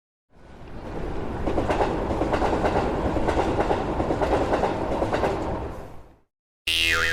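A train passing with a clickety-clack rail clatter: it swells in, holds for several seconds and fades away. Just before the end a separate sound effect cuts in suddenly, its pitch falling.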